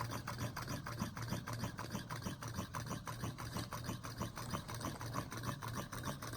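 Homemade Stirling engine with an aluminium-can cylinder, balloon diaphragm and CD flywheel running with its heat source back in place, its crank and linkage ticking in an even rhythm of about five or six clicks a second over a steady low hum.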